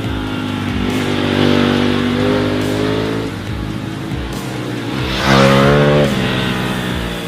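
Ducati Panigale V4 superbike's V4 engine revving: the pitch climbs slowly in the first few seconds, then a louder, sharper rev comes a little past five seconds in.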